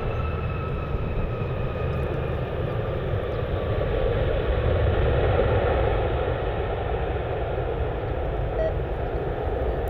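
Jet airliner passing close by. Its engine rumble swells to a peak about halfway through and then eases, over a high engine whine that slowly falls in pitch.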